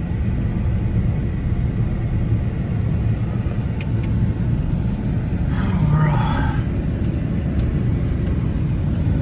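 Steady low rumble of a moving vehicle heard from inside the cab: engine and road noise.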